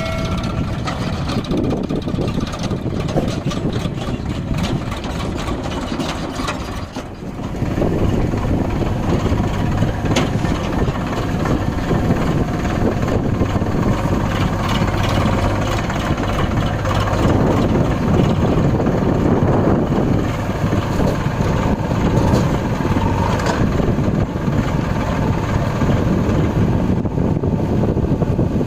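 A tractor's diesel engine running steadily. It dips briefly about seven seconds in, then runs louder and steady.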